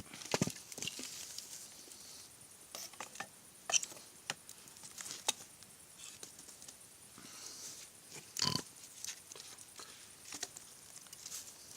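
Wood campfire, freshly fed with firewood, crackling with sharp pops at irregular moments over a steady hiss. The loudest pops come about half a second in and again about eight and a half seconds in.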